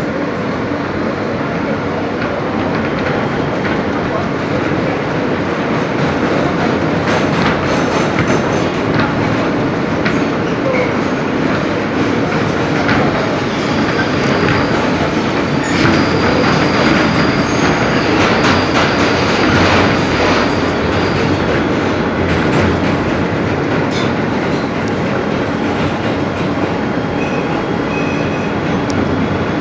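R160B subway car running at speed, heard from inside the car: a steady rumble with wheels clicking over rail joints and a low hum. A thin, high wheel squeal comes in about halfway through and lasts several seconds.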